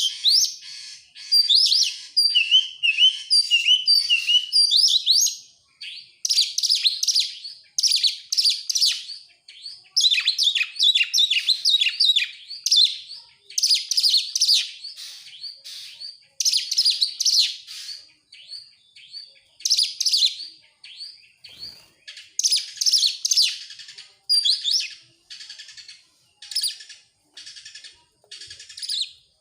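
Oriental magpie-robin (kacer) singing vigorously in fast, varied phrases of whistles and chattering notes, one phrase after another with short pauses between. This is the kind of full, energetic song kept as a 'pancingan' to trigger other kacer into singing.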